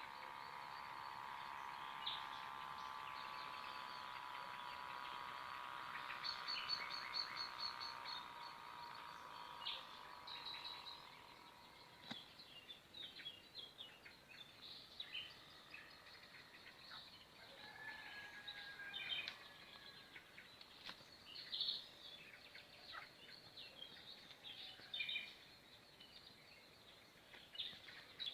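Faint chirping of small birds, short scattered calls throughout. A steady hum of several close tones runs under the first third and fades out about eleven seconds in.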